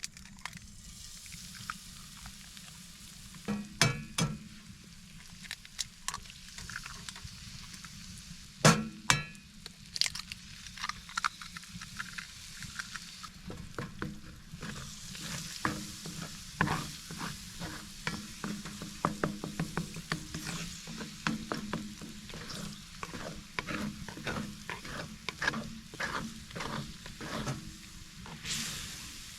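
Wood fire crackling in a small tent wood stove: a steady hiss broken by many irregular sharp pops, the loudest about four and nine seconds in, over a steady low rumble.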